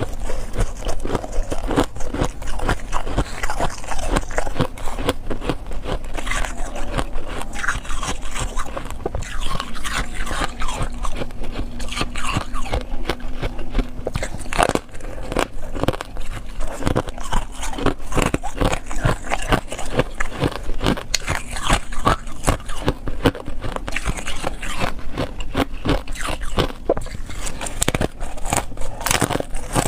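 A person biting and chewing ice, a dense, continuous run of crunching and crackling.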